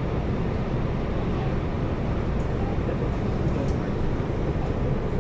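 Electric passenger train running at speed, a steady low rumble heard from inside the carriage.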